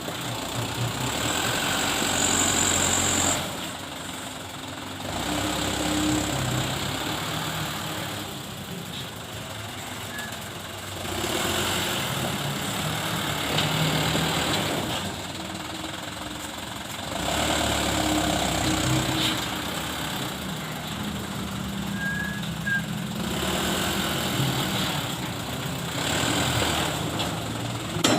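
Dump truck engine, the truck fully loaded with sand and stone, revving up and easing off over and over, about every six seconds, as the truck drives forward and back.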